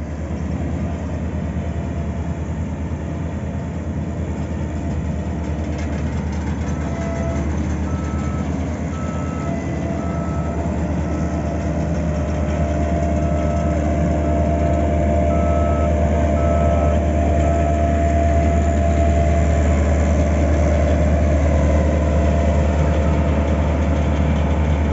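Heavy road-building machinery running steadily, its engine growing louder about halfway through. A reversing alarm beeps about once a second for roughly ten seconds in the middle.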